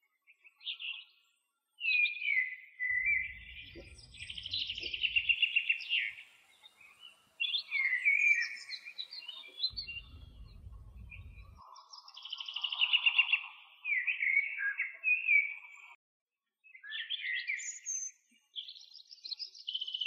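A songbird singing varied warbling phrases with fast trills, in bursts separated by short pauses. A low rumble sounds twice underneath, a few seconds in and again about ten seconds in.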